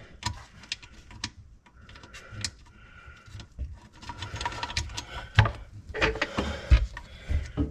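Irregular light clicks and knocks of metal and plastic parts being handled: screwdriver and garbage disposal mounting hardware worked under a sink.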